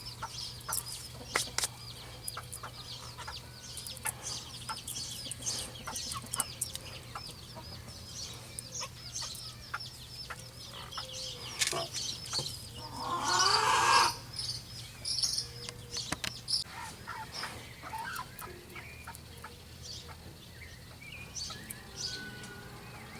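Chickens clucking, with small birds chirping and scattered light clicks and knocks. About thirteen seconds in comes a louder, longer chicken call lasting about a second and a half.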